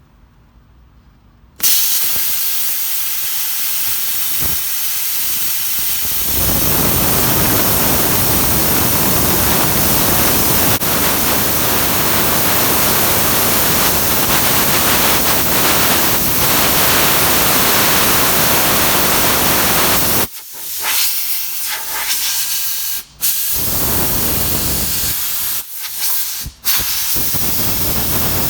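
Plasma cutter cutting thick steel at full amperage: a steady loud hiss starts suddenly about a second and a half in and grows fuller about six seconds in as the cut gets going. It is broken by a few brief stops near the end.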